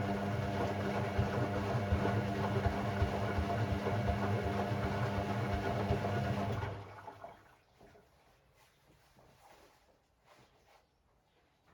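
Hoover Sportswear 1300 (AI130) washing machine draining: the drain pump hums with a steady mains buzz while water gurgles through it, then cuts off about seven seconds in, leaving faint clicks and knocks.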